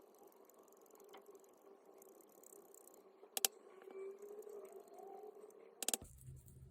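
Faint clicks and light rattling of power-tool parts being handled, over a steady low hum. There is one sharp click about halfway through and a quick cluster of louder clicks near the end.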